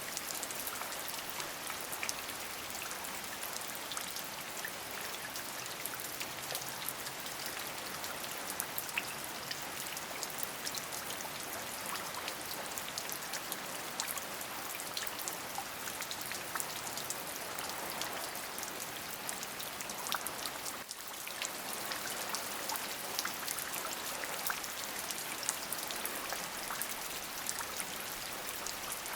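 Steady rain: a dense even hiss with many single drops ticking through it. It dips briefly about twenty seconds in.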